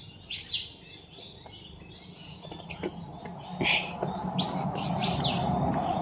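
Small birds chirping: a string of short, high chirps repeated every second or so. Beneath them, a steady background noise grows louder from about halfway through.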